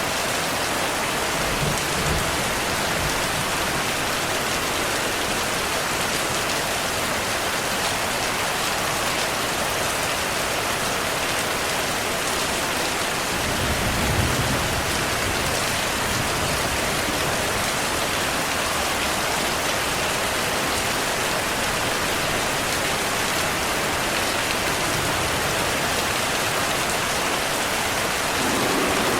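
Heavy rain falling steadily, a dense even hiss, with low rumbles of thunder about two seconds in and again near the middle.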